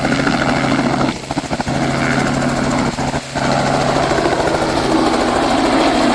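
Large vehicle's engine idling steadily, with a low even hum and two brief dips in loudness.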